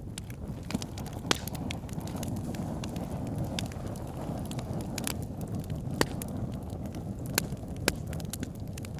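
Wood fire burning in a fireplace: a steady low rumble of flames with frequent sharp crackles and pops, a few louder pops standing out.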